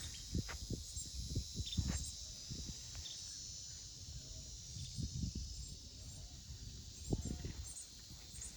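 Steady high-pitched chorus of insects in a swamp, with irregular low thumps and knocks close to the microphone.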